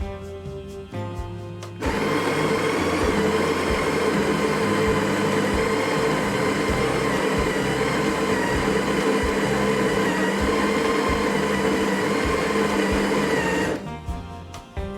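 Electric coffee grinder motor running steadily while grinding coffee beans. It starts about two seconds in and cuts off near the end, about twelve seconds later. Quieter background music plays around it.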